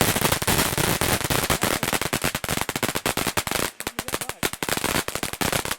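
Cone fountain firework burning with a dense, rapid crackle of tiny pops, thinning briefly about four seconds in before picking up again.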